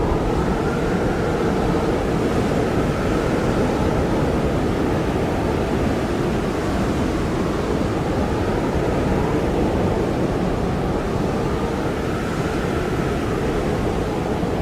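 Blizzard wind blowing steadily, a dense rush of noise with a faint wavering whistle over it.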